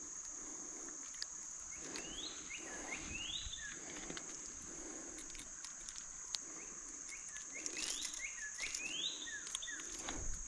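A songbird sings two phrases of quick rising whistled notes, about six seconds apart, over the steady high drone of crickets, with scattered faint clicks.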